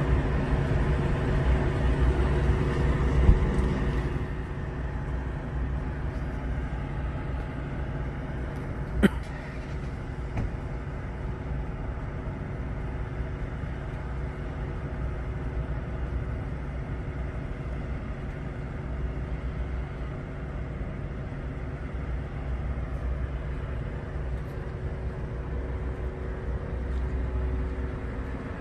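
A parked Dodge Charger patrol car's engine idling with a steady hum, louder for the first four seconds and fainter after. A couple of sharp clicks cut through it, the loudest about nine seconds in.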